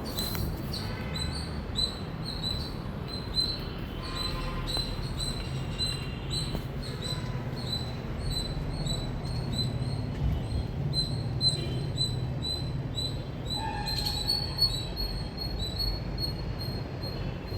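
Indian squirrel giving a long run of short, high-pitched chirps, about two a second, steady in rhythm.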